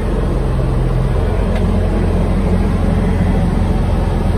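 Toro Groundsmaster 328D's diesel engine running steadily at high revs with the PTO-driven snowblower engaged, its note shifting slightly about a second in.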